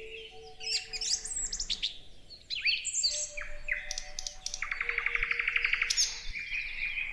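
Several songbirds chirping and whistling, with short rising and falling calls and a fast, even trill about five seconds in. Soft, sustained low notes run underneath.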